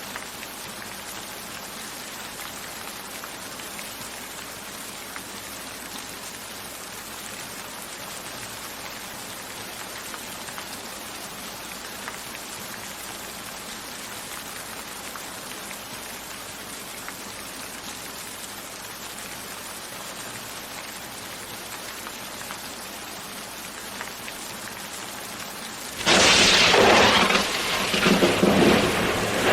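Steady rain falling, an even hiss. Near the end a sudden loud thunderclap breaks in and rumbles on over the rain.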